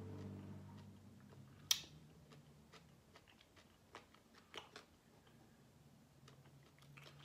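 Faint chewing of a mouthful of coleslaw, with scattered small clicks and one sharper click about a second and a half in.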